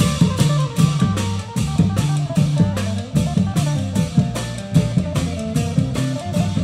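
Thai Isan procession drum band playing: a steady driving beat of drums and cymbals at about three strokes a second under a plucked string melody and a heavy bass line.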